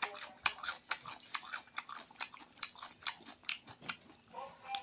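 Close-up eating sounds from a mouthful of curried chicken, rice and noodles eaten by hand: wet chewing and lip smacks, a quick irregular run of sharp clicks.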